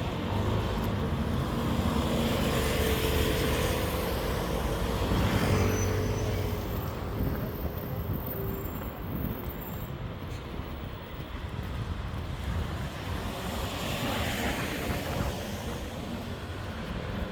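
City road traffic: cars passing on the street with a steady hum of engines and tyres, swelling twice as vehicles go by.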